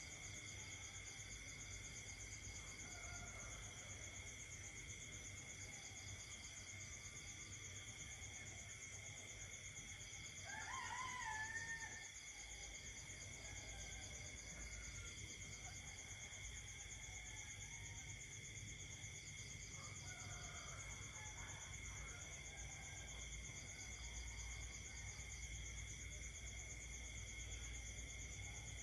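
Night chorus of insects and frogs: several steady, high trilling tones, some of them pulsing, with faint croaks lower down. About ten seconds in, a louder call with a wavering pitch lasts just over a second, and another starts right at the end.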